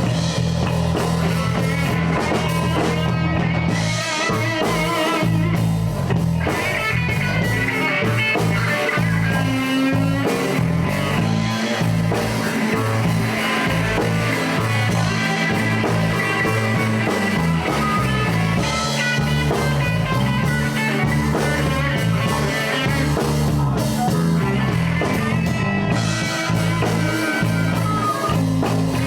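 Live blues band playing a slow shuffle-style groove, with an electric guitar taking the solo over bass and drums.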